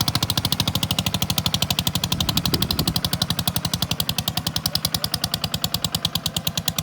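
Tractor diesel engine running, its exhaust pulsing evenly and rapidly at about ten beats a second.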